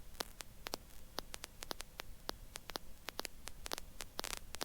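Faint electrical static on the intercom audio feed: irregular sharp clicks, several a second, over a low hum.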